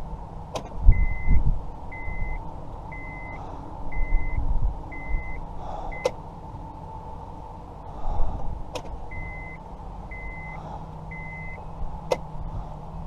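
Electronic beeper sounding short, even beeps about once a second, six in a row, then a pause and three more. Several sharp clicks and some low thumps sound among them.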